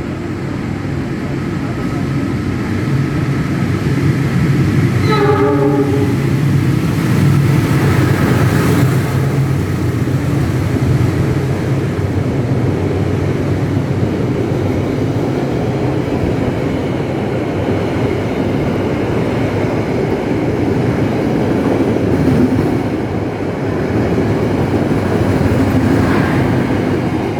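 KA Argo Semeru passenger train, hauled by a diesel locomotive, passing through the station with a steady low rumble. A brief horn sounds about five seconds in.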